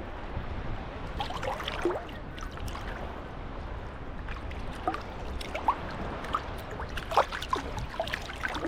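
Small sea waves lapping at the shoreline, the water gurgling and trickling in many short splashes over a low rumble, a little busier near the end.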